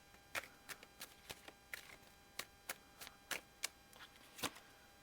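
Irregular light clicks and taps, about a dozen, of tarot or oracle cards being handled and shuffled.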